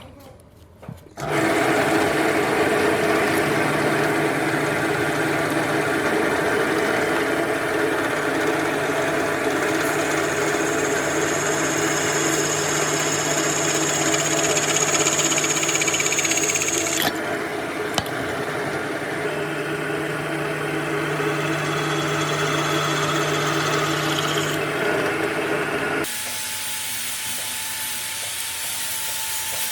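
A motorised power tool running steadily, with a high whine for several seconds in the middle; the sound changes abruptly twice, dropping to a quieter, thinner drone near the end.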